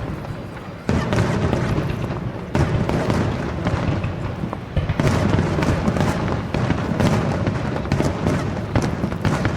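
Fireworks going off, with several sharp booms about one, two and a half and five seconds in, and crackling bursts between them.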